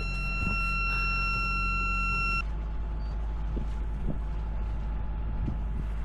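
Boat's engine alarm sounding one continuous high-pitched tone over the steady hum of the running inboard engine; the tone cuts off suddenly about two and a half seconds in. The alarm is warning of the engine battery, which the panel shows as flat.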